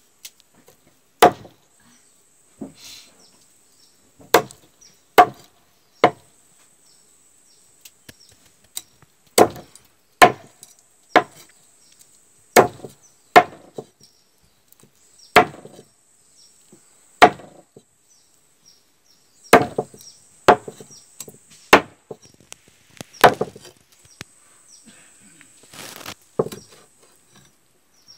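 Knife chopping on a cutting board: about twenty sharp, separate strokes at an uneven pace, roughly one a second, with pauses between runs.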